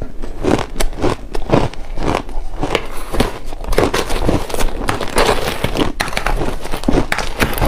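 Shaved ice being bitten and chewed, a steady run of crisp crunches at about two to three a second.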